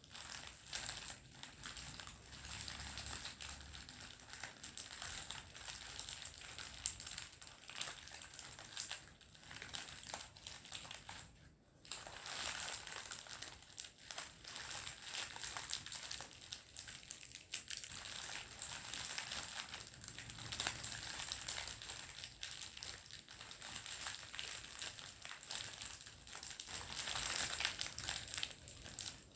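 Candy wrapper crinkling and crumpling in a dense, continuous run of fine crackles, with a brief pause about twelve seconds in.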